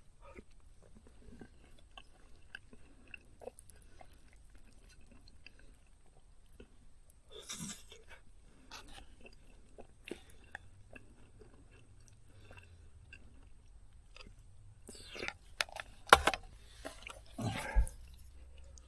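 A person eating curry and rice: faint chewing with small clicks, and a few sharp, louder knocks near the end.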